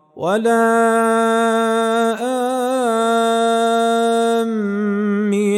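Male Quran reciter's voice in melodic recitation, holding one long drawn-out vowel on a single note that rises into pitch at the start, wavers briefly in an ornament about two seconds in, and settles a little lower near the end.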